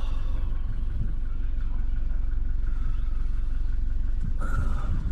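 Wind buffeting the microphone: a steady low rumble that flutters irregularly.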